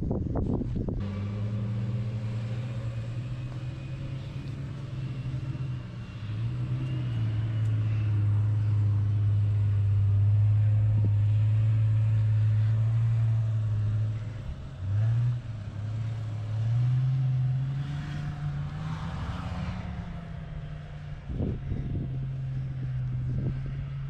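A 4x4's engine running and pulling, its pitch dropping and then rising again as the throttle and load change. There are a couple of short knocks near the end.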